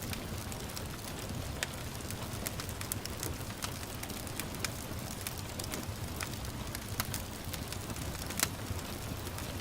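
Wood fire crackling with irregular sharp pops, a couple of them louder about seven and eight and a half seconds in, over a steady patter of gentle rain.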